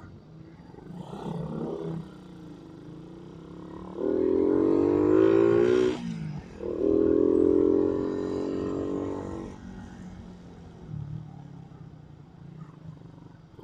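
Suzuki Raider 150 single-cylinder motorcycle engine running underway, revving up about four seconds in, dropping off sharply near six seconds, then pulling hard again for a couple of seconds before settling back to a low hum.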